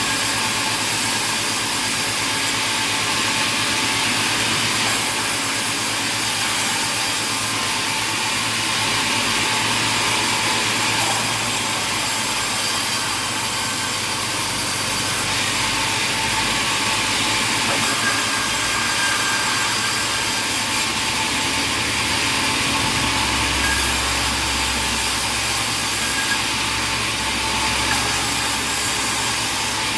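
Sawmill machinery running steadily, a loud continuous mechanical din with a faint whine, and a low hum joining about two-thirds of the way through.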